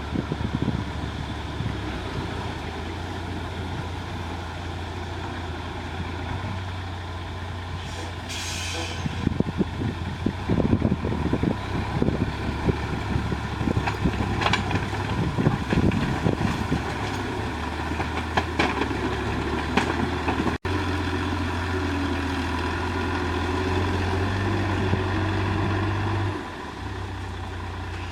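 Heavy diesel engines of a backhoe loader and dump trucks running steadily, with irregular knocking and clattering of loading work through the middle and a short burst of hiss about eight seconds in. The engine note rises a little late on, then drops back.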